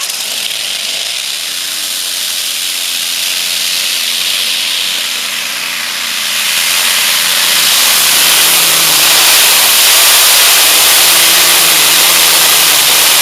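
Modified pulling tractor's engine running hard under load during a pull, a loud, dense roar that grows steadily louder and rises a step in pitch about two-thirds of the way through.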